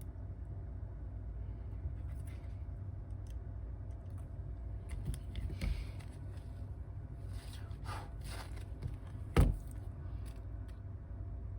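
Small hard parts and tools being handled on a work surface: a few light scrapes and faint clicks, then one sharp click about nine seconds in, over a steady low hum.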